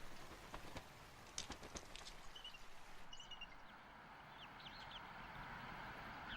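Quiet outdoor ambience: a faint steady hiss with scattered soft clicks, and a few short, high bird chirps in the middle.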